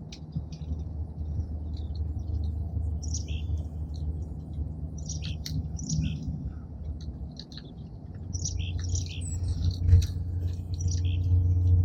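Small songbirds at a bird feeder giving short, high chirps again and again, over a steady low rumble that swells in the last few seconds, with a sharp click about ten seconds in.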